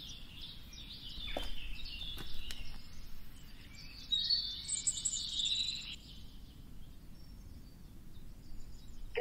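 Birds chirping and trilling in short high calls over a low outdoor background; the calls die away about six seconds in.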